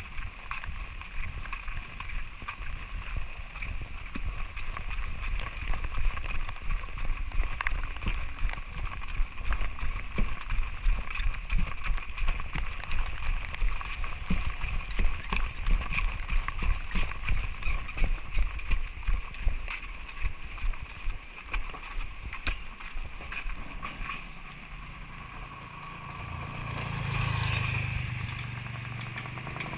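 Walking footsteps, roughly two a second, with many small clicks and knocks, over a steady high hiss. Near the end a low engine hum swells up.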